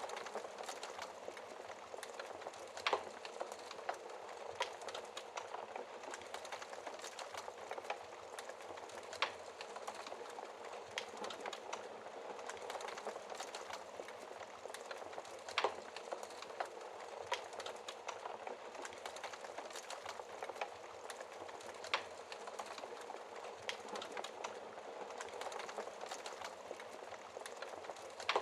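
Wood fire in a fireplace crackling: a steady hiss of burning logs with scattered sharp pops and snaps, a few louder pops standing out.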